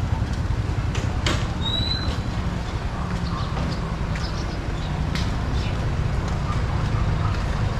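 Outdoor street ambience: a steady low rumble with scattered clicks and one brief high chirp about two seconds in.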